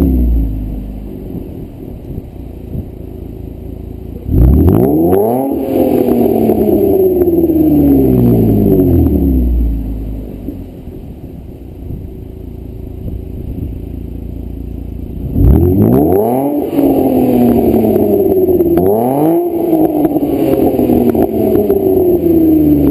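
Holden VE Commodore's 3.0-litre SIDI V6, breathing through stainless extractors, 100-cell cats and a stainless X-Force cat-back exhaust, being revved: the revs fall to idle, then two sharp blips about four seconds in sink slowly back to idle. From about fifteen seconds in it is blipped again several times and is still revving at the end.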